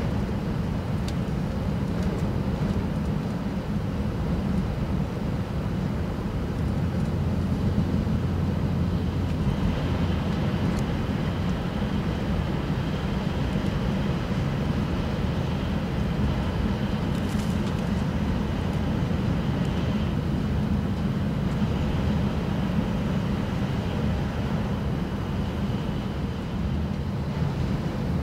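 Steady running noise inside an E6 series shinkansen car at high speed: a continuous low rumble and hum, with a faint high whine joining about ten seconds in.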